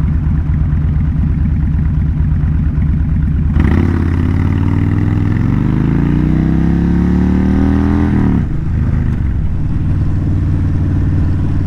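Kawasaki VN1600 Mean Streak's V-twin, through loud Vance and Hines pipes, idling steadily. About three and a half seconds in it opens up and accelerates hard, the revs climbing steadily, then falling sharply near eight seconds in before it runs on steadily.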